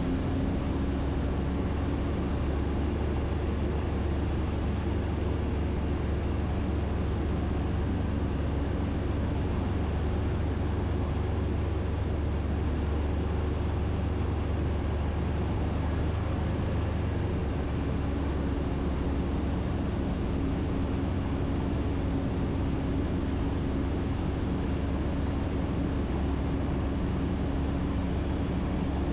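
Ikarus C42 light aircraft's engine and propeller droning steadily with airflow noise, heard from inside the cockpit on final approach to land. The engine note shifts slightly about seventeen seconds in.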